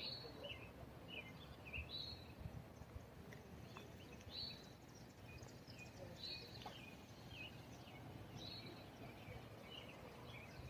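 Faint chirping of small birds, short high notes repeating every half second or so, over a low, steady outdoor background hum.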